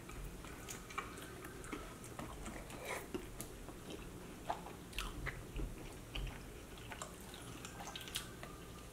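Quiet biting and chewing of sauced chicken wings: soft, scattered mouth clicks and smacks.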